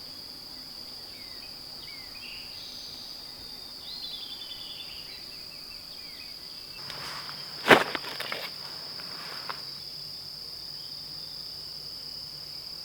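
Steady high-pitched trill of insects, crickets, with faint bird chirps in the first few seconds and one sharp knock a little past the middle.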